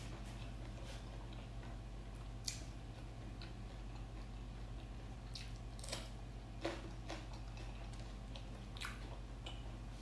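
A person chewing food close to the microphone: scattered wet mouth clicks and smacks, a few of them louder, over a steady low hum.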